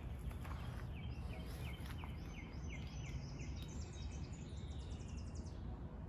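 A songbird singing a long run of quick repeated high notes that stops about five and a half seconds in, over a steady low rumble.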